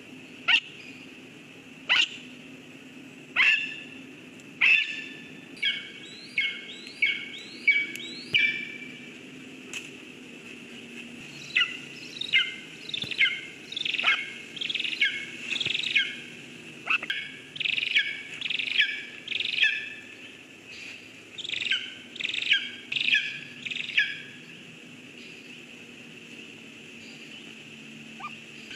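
Eagle calling: sharp, high, falling call notes, first single calls about a second and a half apart, then quick runs of several notes in a row, the calls stopping a few seconds before the end. The uploader takes the calls for the eagle summoning its mate to the nest.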